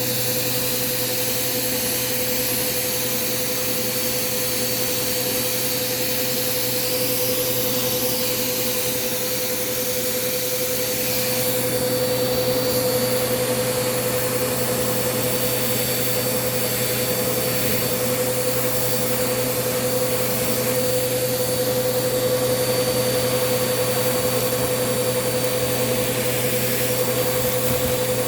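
Bissell PowerForce Compact upright vacuum running steadily, a constant motor whine over airflow noise, growing slightly louder about twelve seconds in.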